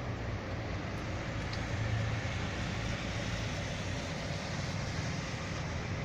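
Steady hiss of rain with a low, continuous rumble of road traffic underneath.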